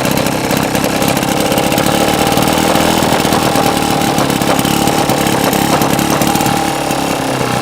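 Iron Horse two-stroke outboard boat motor running steadily, with a rapid, even firing rhythm.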